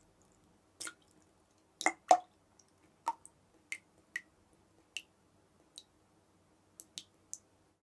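Water drops dripping at an irregular pace, each drop a short plink, a dozen or so in all, over a faint steady hum; the sound stops shortly before the end.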